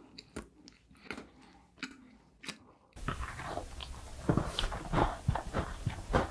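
Close-miked eating: a person biting and chewing sweet food, with short crisp crunches and wet chewing clicks. About three seconds in the sound cuts to louder, denser bites and chewing over a steady hiss.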